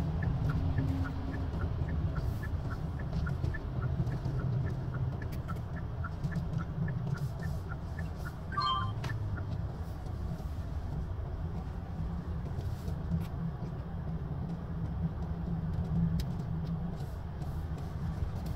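Steady low rumble of a running vehicle, with faint regular ticking about three times a second and a brief high squeak about halfway through.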